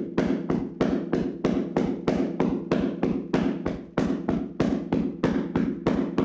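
Hands slapping and tapping on a person's body in a vigorous percussive massage: an even, rapid rhythm of about three strikes a second.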